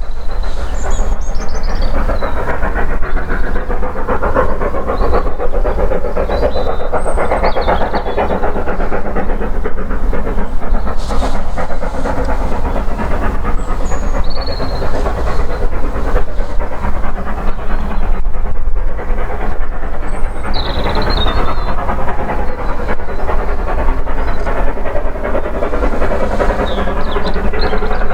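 Steam-hauled train running past, a steady loud rumble and clatter of wheels on rail throughout.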